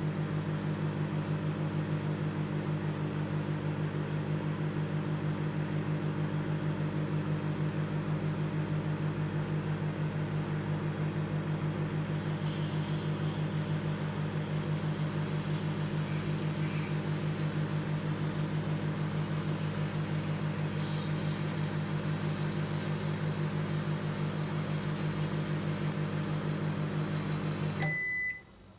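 Microwave oven running on a 30-second cycle: a steady electrical hum. Near the end the hum cuts off and the end-of-cycle beep sounds.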